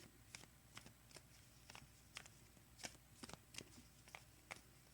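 Faint, irregular light clicks and flicks of oracle cards being handled, about a dozen short ticks over the few seconds.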